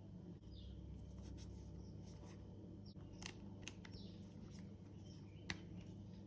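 Faint handling sounds: scattered small clicks and brief plastic rustles, including three sharper clicks, over a steady low hum.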